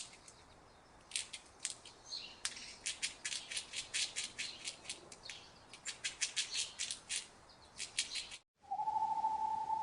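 A fast, irregular run of short, sharp high chirps from an animal. Near the end this cuts off and a steady single-pitched tone begins.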